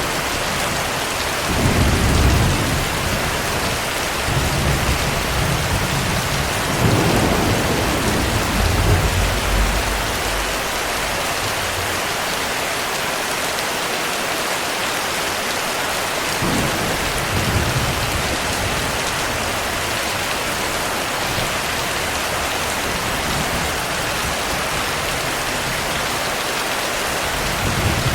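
Heavy rain falling steadily, with rolls of low thunder rumbling in and out: the strongest about two seconds in and from about seven to ten seconds, a weaker one around seventeen seconds and another near the end.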